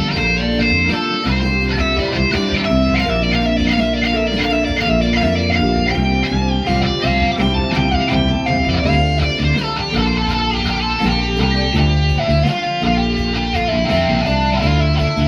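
Instrumental guitar music: quick picked guitar notes over sustained low bass notes.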